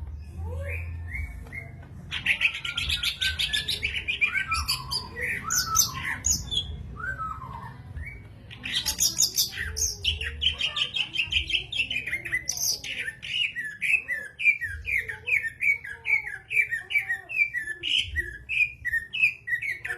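Cucak ijo (green leafbird) in full song: a varied run of rapid chirps and whistles. About halfway through it settles into a long series of repeated falling notes, roughly three a second.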